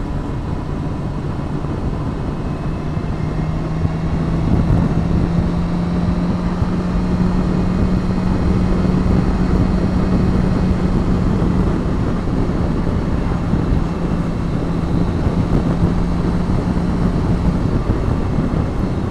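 Motorcycle engine running steadily while riding along a road, with wind rush over the helmet microphone. The engine note rises slightly a few seconds in, holds, and fades out near the end.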